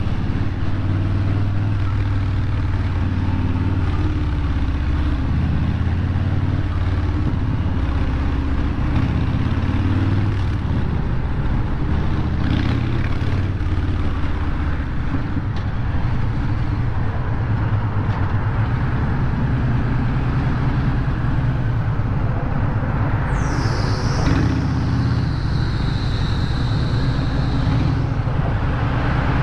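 Harley-Davidson V-twin engine running at low revs in slow traffic, a steady deep rumble. Near the end a high-pitched squeal drops in pitch, holds for a few seconds, then stops.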